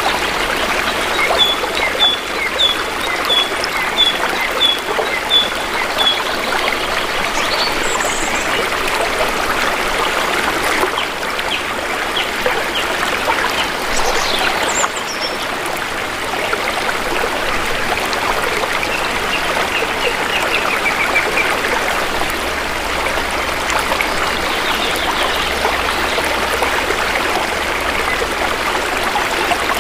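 Shallow river water flowing steadily over stones. A bird repeats a short high chirp about twice a second for the first six seconds, and fainter bird calls come in near the middle.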